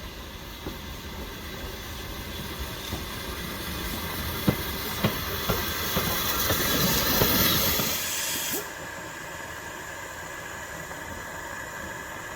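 Steam locomotive letting off steam: a hiss that grows louder, with a few sharp metallic knocks, then stops suddenly about two-thirds of the way through, leaving a lower rumble.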